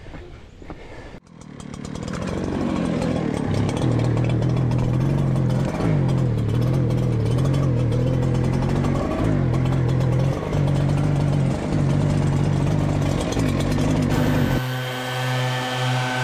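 Gas backpack leaf blowers running, building up about a second in and then holding at a loud engine whine whose pitch shifts up and down with the throttle. Near the end the sound changes to a steadier pitch.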